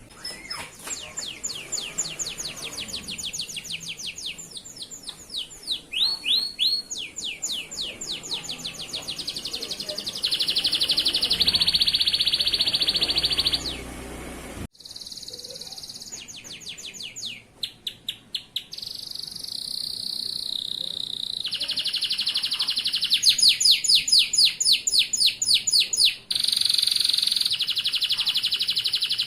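Male canary singing a long, loud song of fast repeated trills and held rolling notes, breaking off briefly about halfway.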